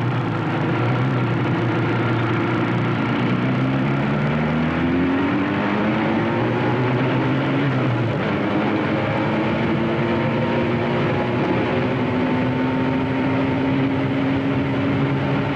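Motorcycle engine running on the road, its pitch rising as the bike speeds up for several seconds, then holding steady.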